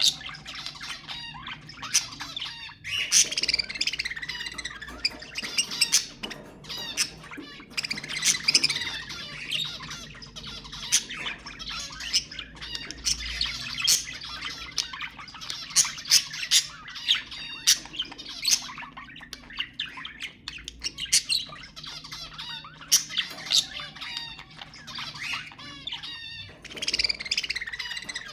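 A group of budgerigars chattering and warbling, mixed with many sharp chirps and squawks.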